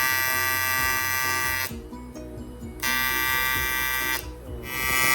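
An electric power tool's motor buzzing in three steady bursts, each a second or so long, with short pauses between.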